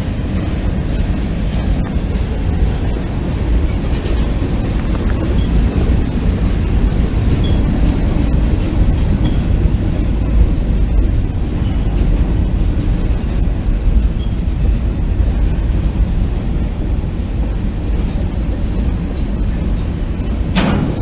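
Freight train cars rolling past with a steady low rumble, and one sharp bang near the end.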